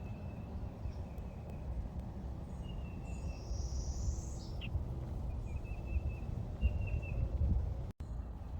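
Wild birds calling in a swamp: thin, high repeated notes and one higher call about halfway through that ends in a quick downward sweep, over a steady low rumbling background noise.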